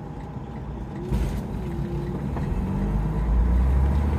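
Diesel engine of a loaded 2012 Freightliner Cascadia semi-truck heard from inside the cab. Its low rumble grows louder from about a second in as the truck pulls, with a brief rush of noise near that point.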